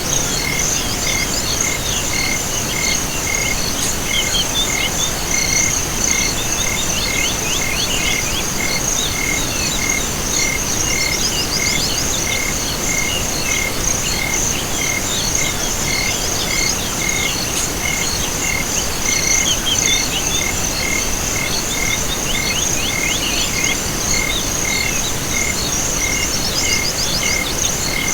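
Chorus of crickets and other insects with frogs calling: a continuous high, steady trill, a regular chirp repeating about one and a half times a second, and bursts of rapid trills coming and going over it.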